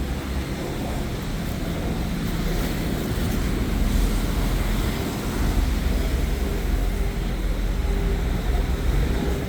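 Steady city street traffic noise, a low rumble under an even hiss.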